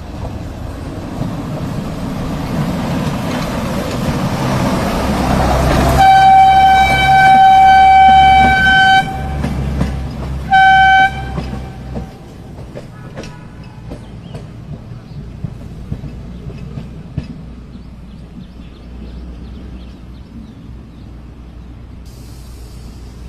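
Kalka–Shimla narrow-gauge toy train approaching and growing louder, then sounding its horn about six seconds in: one long blast of about three seconds and a short one a second and a half later. Afterwards the train runs on more quietly, with scattered clicks from the wheels and track.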